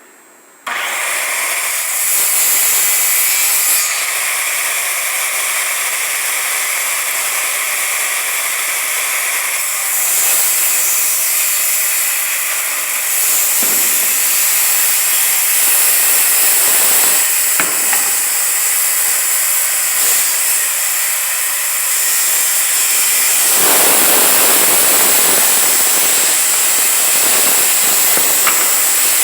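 Circular saw starting up abruptly and running through a long rip cut in plywood along a straightedge guide, the sound shifting a few times as the cut goes on.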